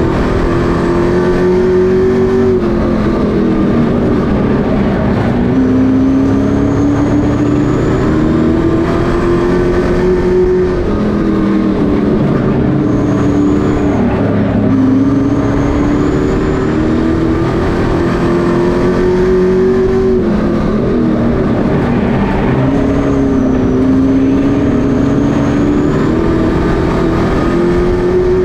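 Pro Truck race trucks' engines running flat out on a short oval, the pitch climbing along the straights and dropping off into the turns, over and over every few seconds.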